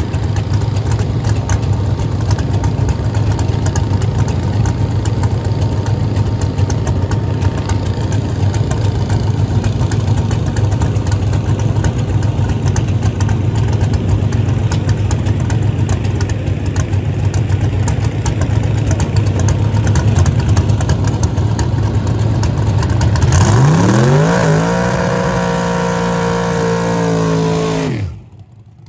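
Drag race car engine running with a steady, loud low rumble. About 23 seconds in, an engine revs hard as a car launches, its pitch climbing and then holding high. Near the end the sound drops away abruptly.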